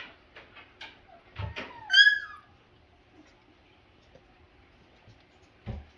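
A five-week-old Double Doodle puppy gives one short, high-pitched yelp about two seconds in, after a few light clicks and knocks. A dull thump comes near the end.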